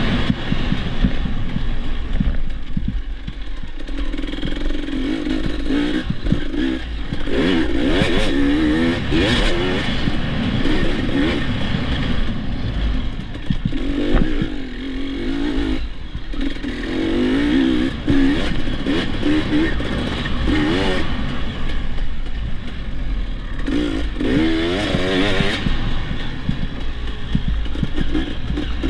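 Dirt bike engine revving up and down under changing throttle while being ridden on a trail. Its pitch rises and falls repeatedly, and the throttle is backed off briefly several times.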